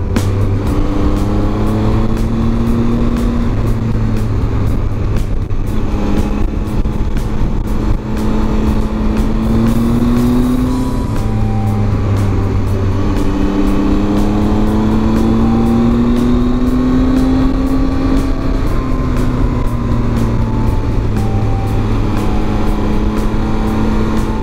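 Triumph Tiger 800's three-cylinder engine running under way, its pitch rising and falling several times with throttle and gear changes.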